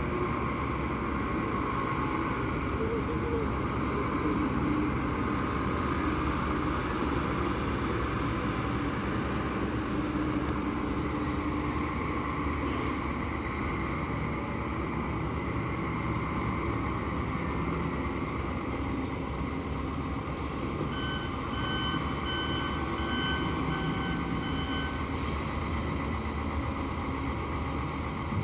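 Heavy truck engine running steadily, with a reversing alarm giving a string of beeps, about two a second, for some four seconds near the end.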